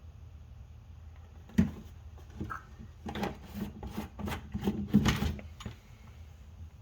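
Hand tools and parts being handled: a sharp knock about a second and a half in, then a quick run of about ten clicks and knocks.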